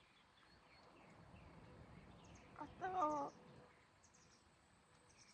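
Wild birds calling: one loud call with a wavering pitch about three seconds in, over faint, scattered high chirps.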